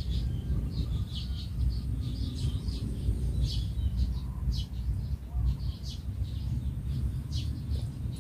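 Small birds chirping in short, repeated notes, over a steady low rumble.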